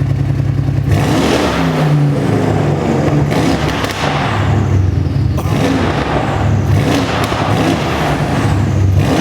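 Mercedes-AMG C63 S twin-turbo V8, straight-piped with aftermarket downpipes, idling and then revved in several blips from about a second in, its pitch rising and falling with each rev.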